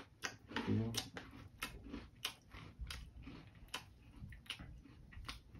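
A person chewing a mouthful of Cinnamon Toast Crunch Rolls cereal close to the microphone, the chews coming as short clicks about two to three times a second.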